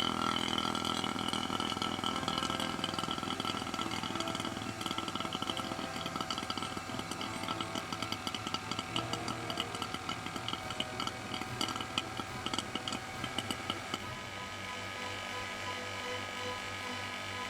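A small motor running steadily, with a rapid fluttering rattle over it in the middle that stops about fourteen seconds in.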